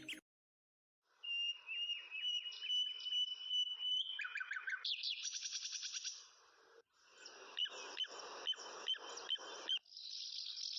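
Birds chirping in quick repeated trills and chattering phrases, starting about a second in after a brief silence. Near the end a steady high insect buzz takes over.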